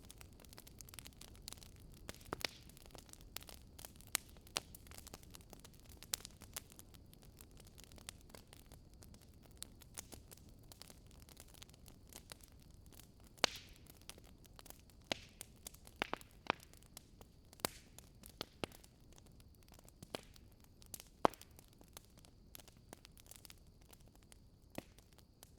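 Firewood burning in a fireplace, crackling: irregular sharp pops and snaps over a soft, low rush of flame.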